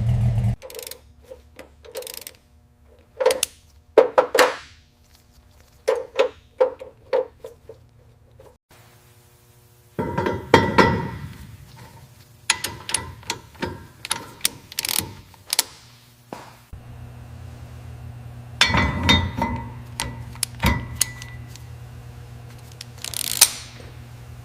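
A run of separate clinks, clicks and knocks of metal tools and parts being handled, some ringing briefly, with a low steady hum under the second half. A low engine rumble cuts off suddenly about half a second in.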